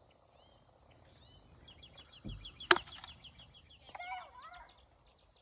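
Birdsong outdoors: a rapid train of high, short chirps, about six a second, through the second half, with clucking-like calls about four seconds in. A single sharp crack sounds about halfway through and is the loudest thing.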